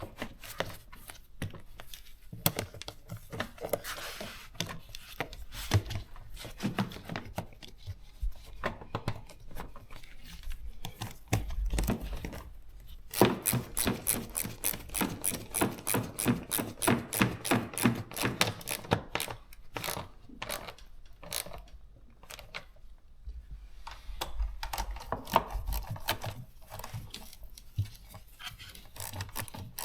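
Hand work on an engine's air intake duct: plastic parts knocking and rubbing, with a long run of even, rapid clicks in the middle, like a ratchet tightening the duct's hose clamp.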